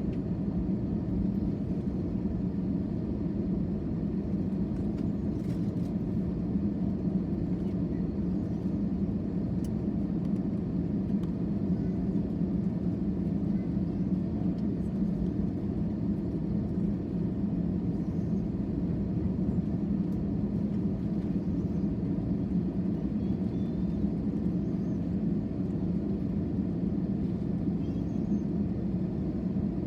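Steady low rumble of an airliner's jet engines and airflow, heard from inside the passenger cabin, with a hum around a low pitch and no change in level.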